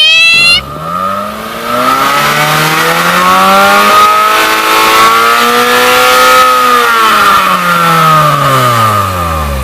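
Supercar engine revving high, cut off abruptly about half a second in. A second car's engine follows, its pitch climbing slowly and then falling away over several seconds as it drives past, ending in a sudden cut.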